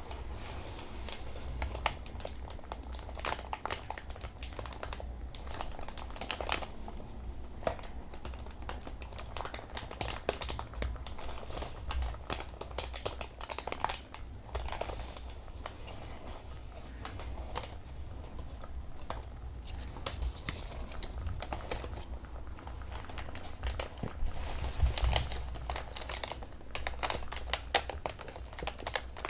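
Thin, cheap packing paper of the kind glass items come wrapped in, crumpled and crinkled by hand in irregular crackling rustles.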